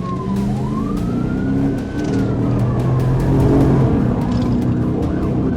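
Police siren wailing, its pitch sweeping slowly down, up and down again and fading about halfway through, over the engine and road noise of a vehicle in pursuit.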